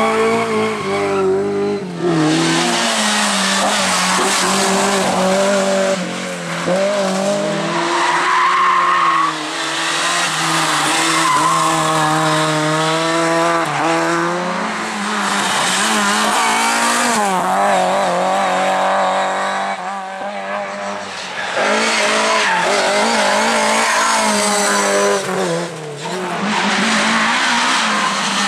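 Rally car engines driven hard, the revs climbing and dropping repeatedly through gear changes and lifts off the throttle, with tyres squealing and skidding.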